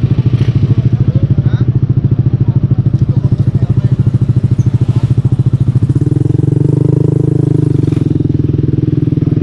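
Motorcycle with an SC Project aftermarket exhaust and modified elbow pipe, running with an even, pulsing exhaust beat; about six seconds in the beat quickens and fills out as the engine picks up speed.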